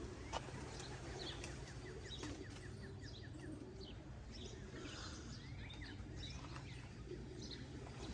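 Small birds chirping faintly, short high calls scattered throughout, with a quick rapid trill a second or two in. A steady low background rumble runs underneath, and there is one sharp click just after the start.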